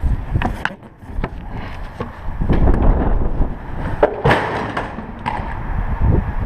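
Wind buffeting the microphone, with a run of clattering, scraping knocks and one loud clank about four seconds in.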